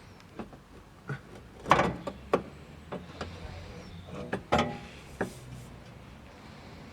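Toyota MR2 rear exhaust section knocking and clanking as it is worked loose from its rubber hangers, in a series of separate metal knocks. The loudest come about two seconds in and again near the middle.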